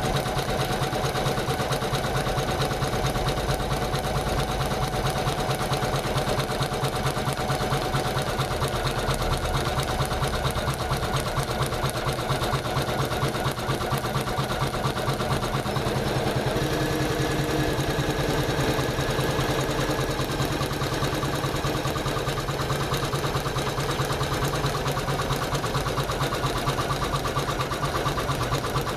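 Janome MC500E computerized embroidery machine stitching steadily, its needle running in a fast, even rhythm. Its tone shifts slightly a little past halfway through.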